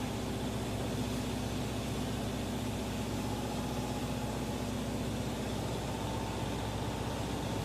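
Steady hum of a running machine motor, with a constant pitch and an even hiss over it.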